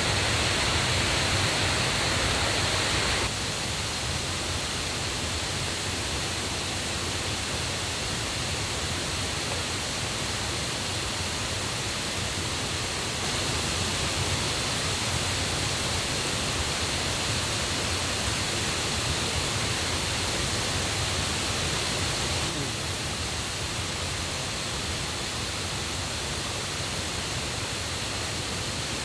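Steady rushing of a mountain stream and waterfall, swollen and loud after rain. Its loudness steps down abruptly about three seconds in, rises again midway and drops once more later on.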